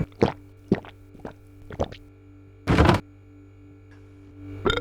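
Refrigerator door and the items inside being handled: a string of short knocks and thunks, a longer scraping rustle in the middle and another thunk near the end, over a faint steady hum.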